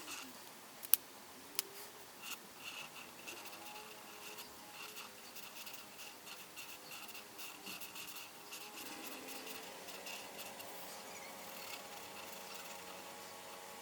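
Coloring strokes on paper: quick, rhythmic scratching of a coloring implement going back and forth, with two sharp clicks about a second in.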